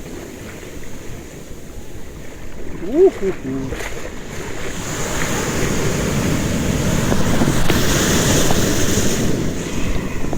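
Atlantic Ocean surf washing onto the shore, building to a louder surge of breaking water in the second half, with wind buffeting the microphone. A brief pitched call rises and falls about three seconds in.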